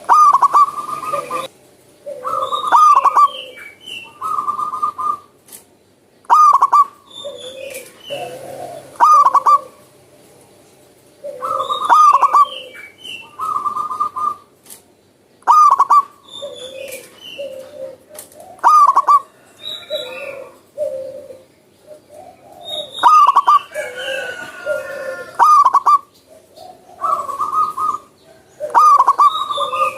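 Zebra dove (perkutut) singing its cooing song over and over, a short phrase every two to three seconds, with other small birds chirping faintly around it.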